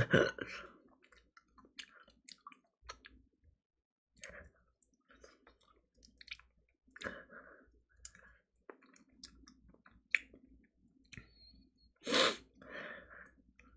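Close mouth sounds of gnawing and chewing meat off a chicken bone: scattered small wet clicks and smacks, with a short louder breathy burst near the end.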